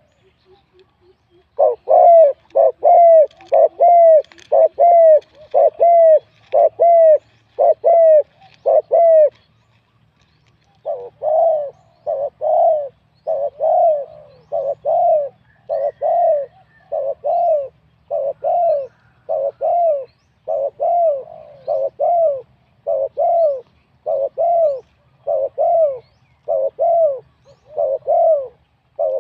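Spotted dove cooing in a fast, regular series of short coos, about two a second, breaking off for about a second near the middle before starting again.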